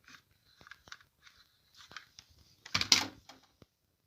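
Toys being handled: scattered light clicks and rustling, with one louder rustle or clatter about three seconds in.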